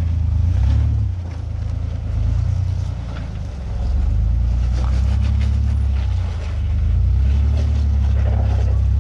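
Off-road SUV engine running under light throttle while crawling, its low drone easing off twice and then picking up again.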